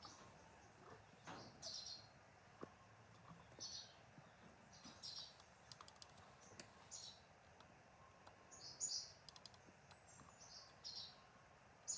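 Faint bird chirps: short, high calls repeated every second or so, with a few faint clicks between them.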